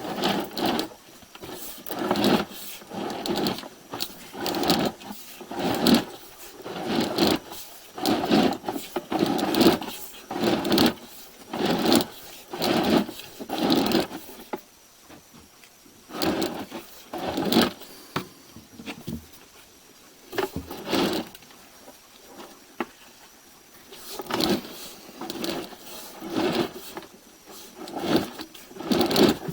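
Sewer inspection camera's push cable being pulled back out of the drain line and fed onto its reel: repeated scraping, rattling strokes about once a second, with a few short pauses.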